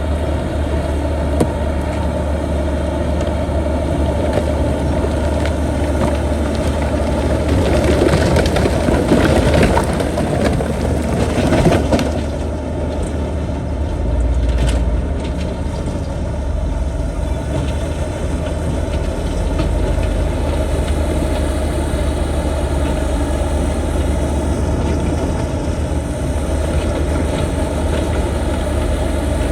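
Heavy diesel earthmoving machinery running steadily, with a louder stretch of grinding and crushing partway through, typical of rock and earth being pushed or dumped.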